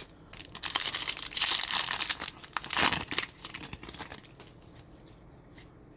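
Plastic trading-card pack wrapper being torn open and crinkled by hand, a dense crackle lasting about three seconds that dies away after about four seconds.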